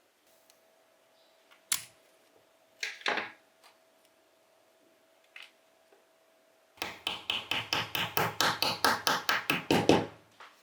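Hand-tool work on a bench grinder being reassembled: a few separate knocks, then a quick run of about eighteen sharp taps, some six a second, for about three seconds.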